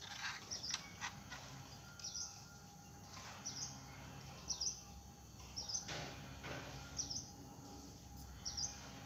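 A bird calling outdoors: short, high, hooked chirps repeated about once a second, over faint clicks and a low steady background hum.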